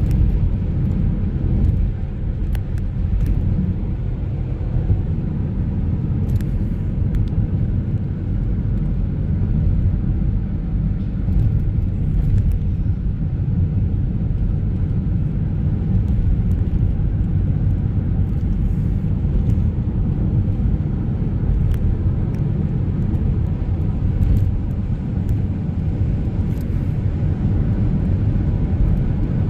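Steady low rumble of a car being driven: road and engine noise, with a few faint ticks.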